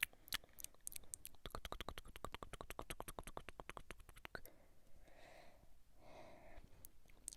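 ASMR typing, close to the microphone: a quick run of light clicks, about ten a second, lasting about three seconds, with scattered taps before it. It is followed by two soft, breathy whisper-like sounds.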